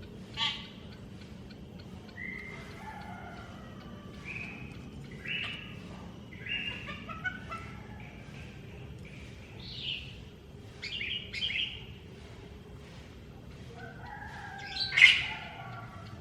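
Cucak ijo mini (green leafbird) singing: a string of separate chirps and short warbled phrases, with the loudest burst near the end.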